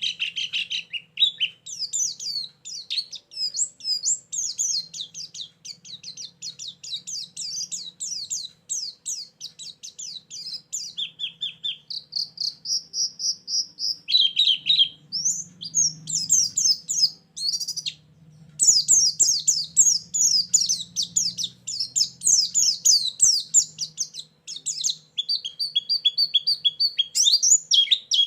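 White-eye (pleci) song played as a lure call with fill-in phrases: long runs of rapid, high twittering chirps, broken by a few short pauses.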